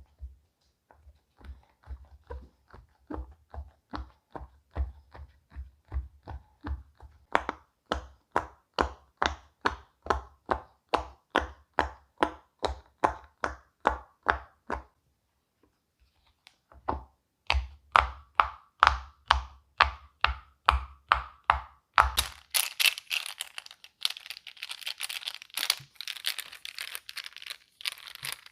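Silicone pop-it fidget toy bubbles being pushed through one after another, a steady run of sharp little pops at about two to three a second, with a brief pause partway. About three-quarters of the way in, the popping gives way to continuous crinkling.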